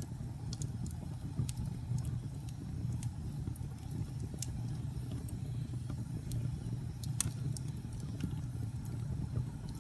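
Fire crackling: scattered sharp pops and snaps over a steady low rumble of the flames, the loudest pop a little past seven seconds in.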